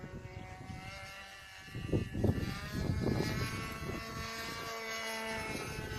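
Engine of a Westland Widgeon RC model airplane running in flight, a steady drone whose pitch drifts slightly up and down. A burst of low rumble about two seconds in.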